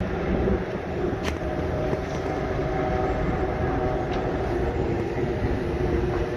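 Race car engines droning steadily over a low rumble, with a few held engine tones and no clear pass-by.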